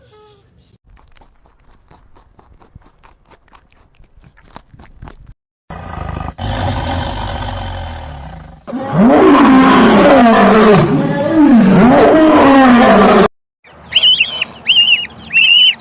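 An animal roaring loudly in long calls that slide up and down in pitch, after faint ticking at the start. Near the end comes a quick run of short, high calls.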